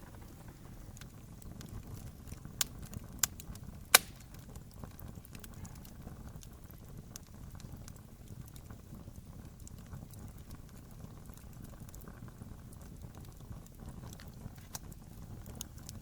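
Wood fire burning with a steady low rumble and scattered crackles, with three sharp pops a few seconds in, the last the loudest.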